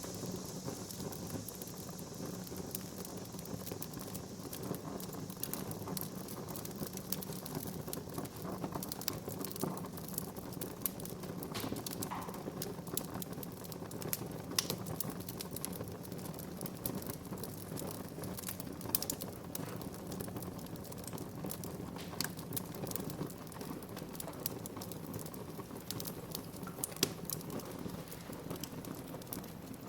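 Wood fire burning in a fireplace, crackling with irregular sharp pops over a steady low hiss.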